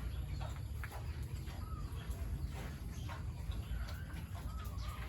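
Farm animals giving short, arched calls now and then, amid scattered knocks and clatter over a steady low rumble.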